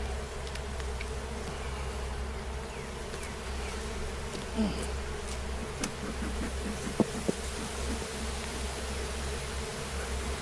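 Honeybees buzzing around an opened hive: a steady, dense drone, with a few bees zipping close past in short rising-and-falling whines.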